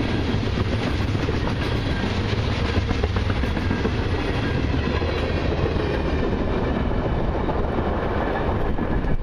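Freight train tank cars and a gondola rolling past close by, steel wheels clattering over the rail joints in a steady stream of noise. The last car clears the crossing near the end.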